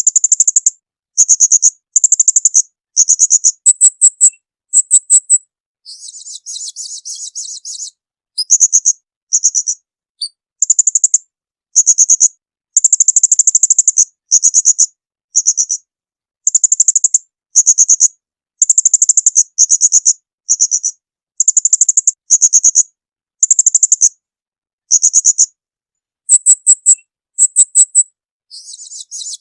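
Songbird calls from a masteran tutor recording: loud, very high, short bursts of rapid chattering notes repeated about once a second with brief silences between them. A longer rough, buzzing trill breaks in twice, about six seconds in and again near the end.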